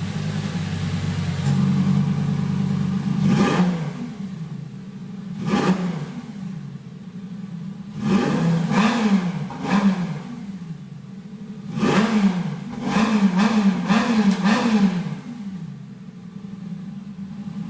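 Lamborghini Gallardo's V10 engine, breathing through a Guerrilla bypass exhaust, revved from idle in sharp throttle blips. Single blips come about three and a half and five and a half seconds in, then runs of quick repeated revs around eight to ten seconds and again around twelve to fifteen seconds, dropping back to idle in between.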